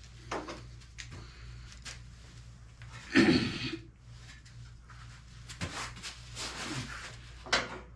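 Tools and small engine parts being handled during teardown: scattered clicks and knocks, with a louder clatter about three seconds in and another near six seconds.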